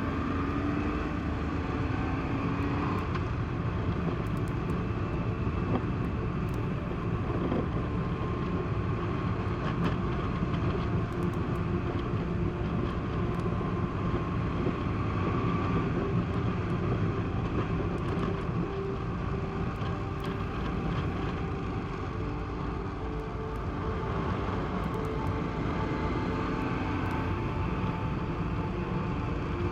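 Honda PC800 motorcycle's V-twin engine running while riding, mixed with wind and road noise. The engine pitch rises and falls a little.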